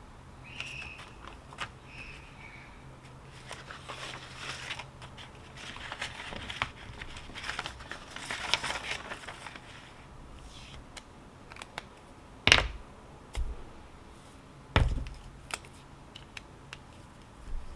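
Paper rustling and crinkling as study papers are handled, with small clicks. Then two sharp knocks a little over two seconds apart near the end. Two short high squeaks come early on.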